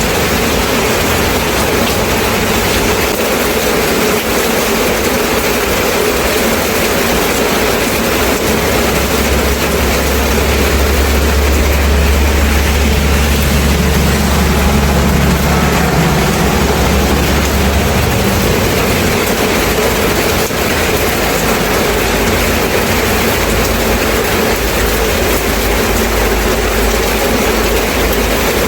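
Steady heavy rain as an even, full hiss. About eight seconds in, a low rumble rises under it and fades out about ten seconds later.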